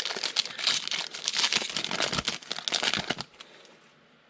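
The wrapper of a football trading card pack crinkling and crackling as it is torn open, stopping about three seconds in.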